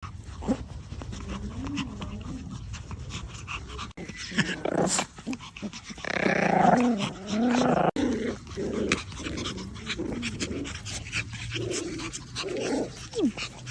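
Dog growling in a run of short, wavering calls, loudest about halfway through.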